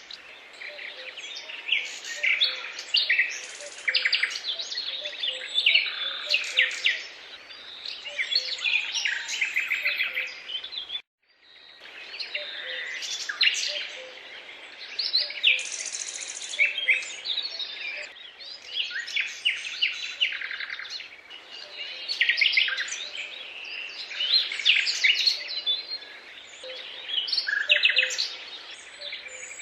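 Many small birds chirping and singing at once, a dense chorus of quick overlapping calls and trills. The sound cuts out for a moment a little after ten seconds, then carries on as before.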